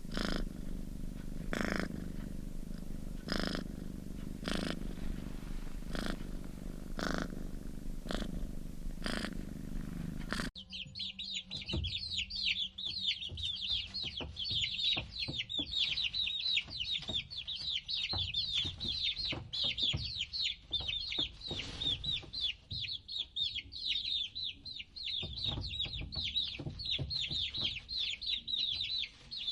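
A domestic cat purring, swelling with each breath about once every second and a bit. About ten seconds in it cuts off abruptly, replaced by a dense chorus of high-pitched cheeping from chicks.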